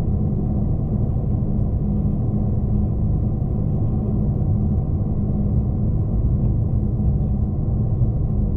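V/Line passenger train running along the line, heard from inside the carriage: a steady low rumble with a constant hum underneath.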